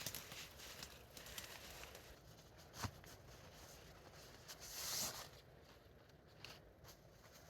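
Faint rustling and handling noises with scattered light clicks, a sharp knock about three seconds in, and a brief louder rustle about five seconds in.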